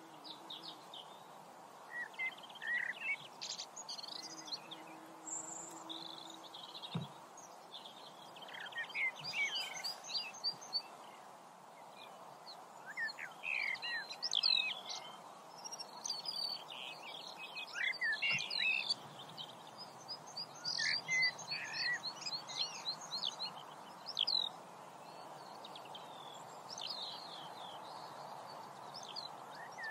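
Several small birds chirping and warbling in quick, overlapping phrases over a steady background hiss.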